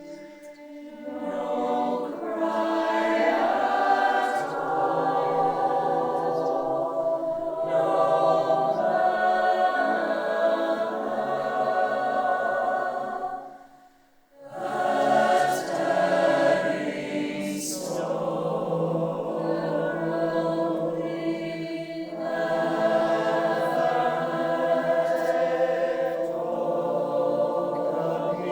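Choir singing held chords in long phrases, breaking off briefly about halfway through.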